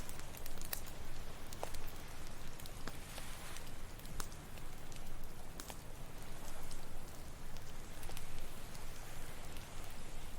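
Campfire crackling, with irregular sharp pops and snaps over a steady hiss of ocean waves washing on the shore.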